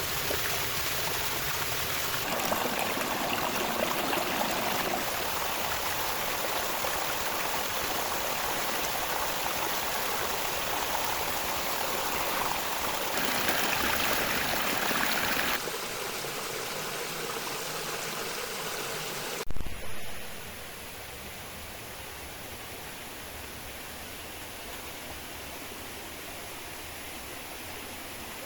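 Heavy rain and running water: a steady, even hiss that changes character abruptly several times. A brief loud double thump comes about twenty seconds in, and after it the hiss is quieter.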